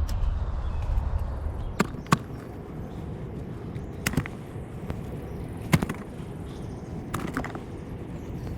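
Footsteps through woodland litter, with sharp twig snaps every second or two over a low rustle.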